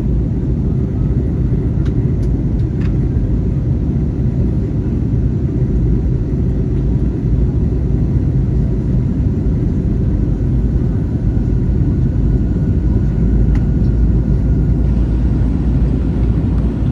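Steady low rumble of engine and airflow noise heard inside the cabin of an Airbus A321ceo airliner in flight, from a rear window seat.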